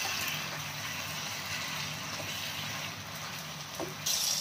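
Fried chicken pieces sizzling in a pan of thick masala sauce as it cooks down until the oil separates: a steady hiss that turns louder suddenly near the end, with a faint knock of the spatula just before.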